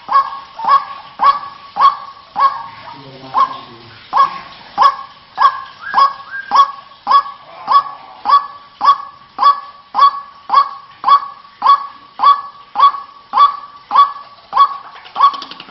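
White-breasted waterhen calling: a long, even run of short sharp call notes, nearly two a second, briefly faltering about three seconds in.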